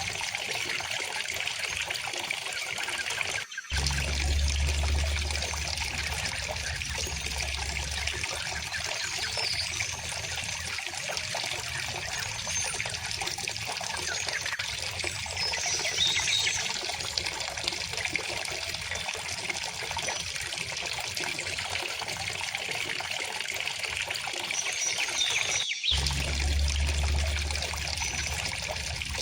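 River water running and trickling steadily, with a few faint bird chirps over it. Twice the sound drops out for an instant and then comes back with a few seconds of low rumble underneath.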